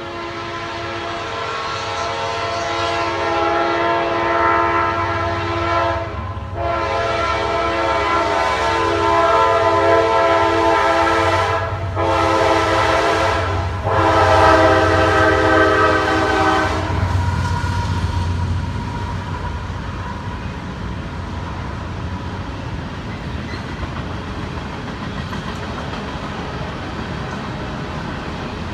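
Freight train diesel locomotives approaching and sounding a multi-note air horn in four blasts, long, long, short, long: the grade-crossing warning signal. The horn stops about 17 seconds in, and the locomotives' engines rumble past. Freight cars then roll by steadily.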